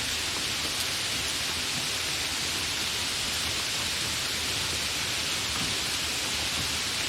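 Steady, fairly heavy rain falling, an even hiss with no thunder.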